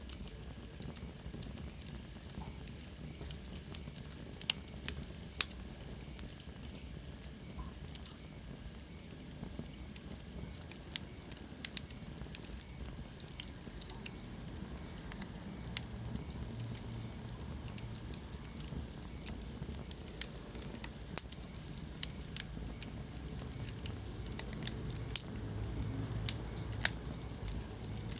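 Wood fire burning in a fireplace, crackling with irregular sharp pops over a low steady rumble. A faint high whistle falls in pitch for a few seconds near the start.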